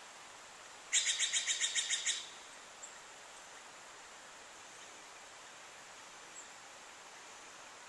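A bird's quick trill: a single run of about ten rapid, even notes lasting just over a second, starting about a second in.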